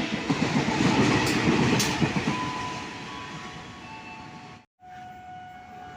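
Train passing close by, its wheels rumbling and clattering on the rails, loudest in the first two seconds and then fading. Near the end the sound cuts out for a moment and a quieter steady train hum follows.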